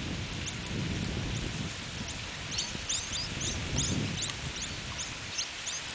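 Many short, thin, high bird chirps in quick succession, thickest from about halfway through, over an uneven low rumble.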